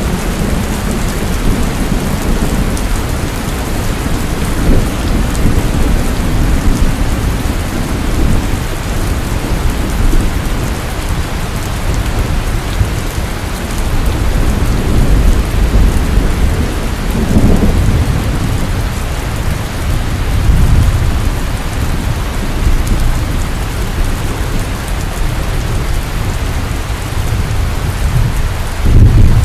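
Heavy rain pouring steadily, with low rolls of thunder rumbling up and fading several times, the strongest near the middle and again at the end.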